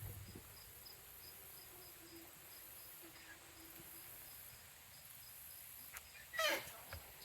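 Faint, steady insect chirping, repeating about three times a second, on a quiet trail. About six and a half seconds in comes one short, louder animal call that falls in pitch.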